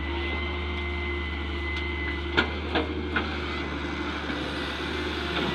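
Heavy machinery engine running steadily, with three sharp knocks in quick succession a little before halfway.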